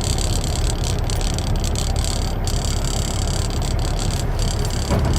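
Semi-truck running at highway speed: a steady engine drone under continuous tyre and road noise.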